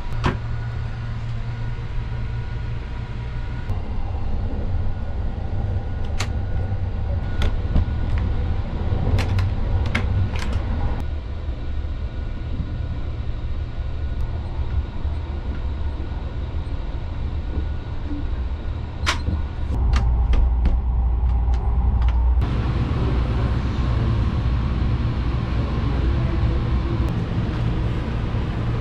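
Low, steady rumble of the Sunrise Seto electric sleeper train running, heard from inside the carriage, with scattered sharp clicks and knocks. The running noise grows louder and fuller about two-thirds of the way through.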